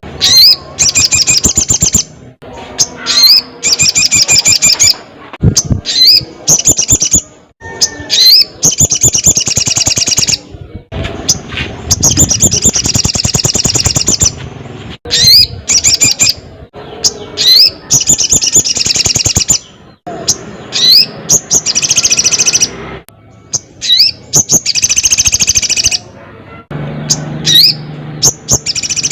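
Sogon, the crimson sunbird, singing loudly and without let-up. Rapid high buzzy trills about one to two seconds long alternate with sharp upward-sweeping chips, phrase after phrase.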